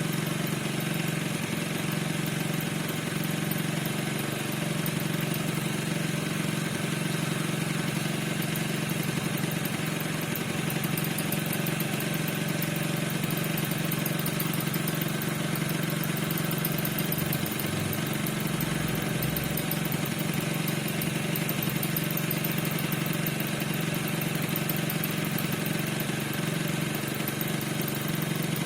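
NRG 50 scooter's single-cylinder 50 cc two-stroke engine idling steadily, with a squeak that the owner cannot explain.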